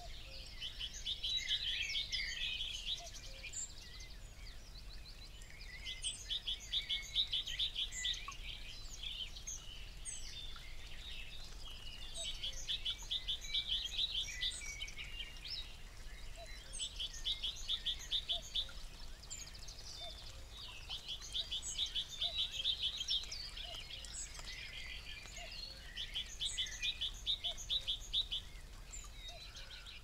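Songbirds singing: one bird repeats a rapid trill about every five seconds, six times, with scattered short chirps and calls from other birds around it.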